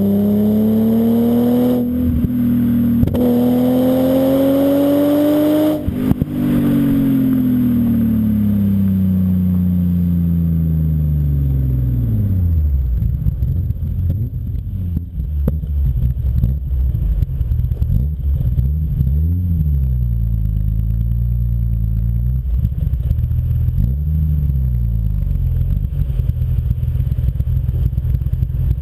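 BMW M5 E34's S38B38 3.8-litre straight-six running through a Scorpion exhaust. It revs up hard for about six seconds with two brief breaks, then comes off the throttle and the note falls away for several seconds. It then settles to a low, steady running note with two short rev rises.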